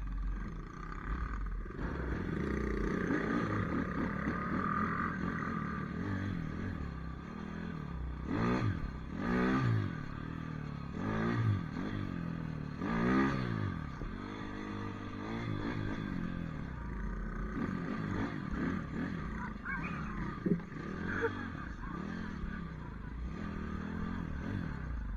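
Pit bike engine being ridden, revving up and down in repeated surges, the pitch climbing and dropping several times around the middle, then running more steadily.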